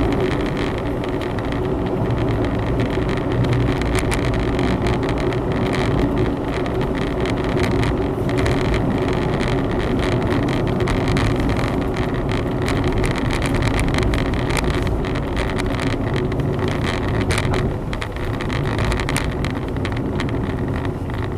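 Honda Zest kei car on the move, heard from inside the cabin: its three-cylinder engine running steadily under tyre and road rumble, with small knocks from the road surface. The noise eases slightly near the end.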